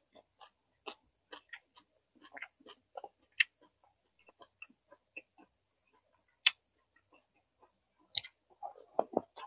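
Close-miked chewing of roasted vegetables: irregular soft wet mouth clicks and small crunches, with a few sharper clicks and a louder cluster of crunching near the end.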